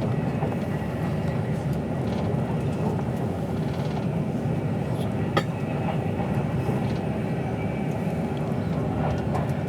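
Steady rumble of a passenger train running at speed, heard from inside the carriage. A single sharp click comes about five seconds in.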